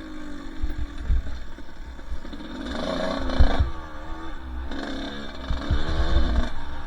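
Two-stroke dirt bike engine running under the rider, revving up and easing off through the gears, with two stronger rises in pitch about a third of the way in and past the middle. Dull low thumps on the microphone throughout.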